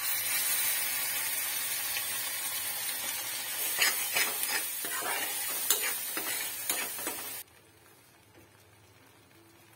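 Turmeric and ground masala paste sizzling in hot oil in a metal kadhai, stirred with a metal spatula that scrapes and clinks against the pan a few times. The sizzle cuts off suddenly about seven seconds in.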